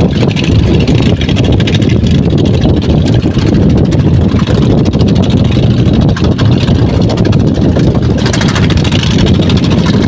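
An engine running steadily at a loud, even level, a dense low rumble with a fast, even pulse.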